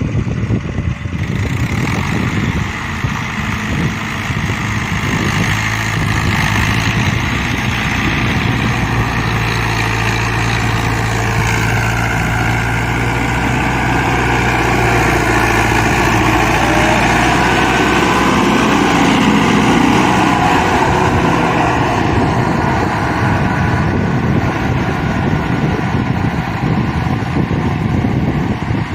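Fiat 640 tractor's four-cylinder diesel engine running steadily, a little louder in the middle.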